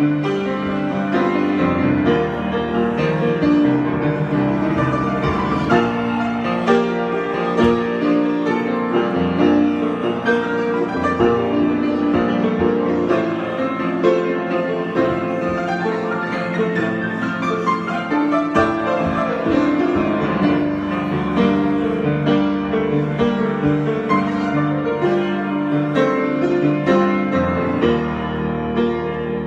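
Solo piano improvisation, many notes struck in overlapping chords and running lines, keeping an even loudness throughout.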